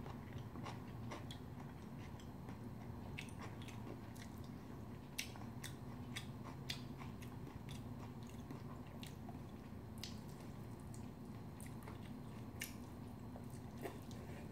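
Close-miked eating sounds: bibimbap being chewed, with scattered sharp clicks and smacks, over a steady low hum.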